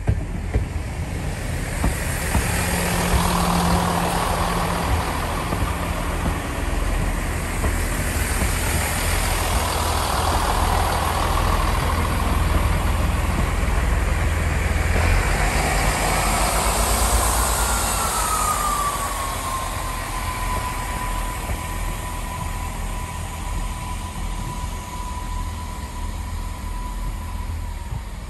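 Chiltern Railways diesel multiple unit passing close by, the rumble and rush of its wheels on the rails loudest through the first half, then easing as it draws away. A thin whine falls in pitch and then holds steady to the end.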